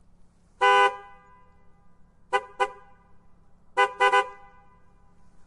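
Car horn honking: one short blast, then two quick toots, then three quick toots, each fading with a short echo.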